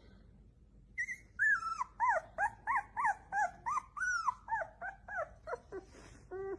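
A dog vocalizing in a quick run of short cries that rise and fall, about three a second, starting about a second in. The cries start high and drop lower in pitch toward the end.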